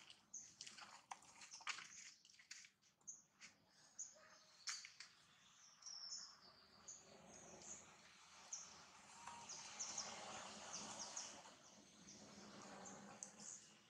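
Faint outdoor birdsong: short, high chirps and whistles repeat throughout. A few light clicks come in the first few seconds.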